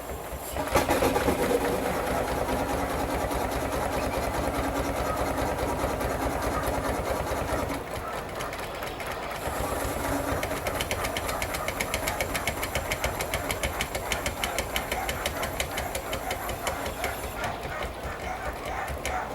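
A 5/8 scale Wood Brothers steam traction engine running, with a rapid, even mechanical beat. The sound changes abruptly a few times, where separate clips are joined.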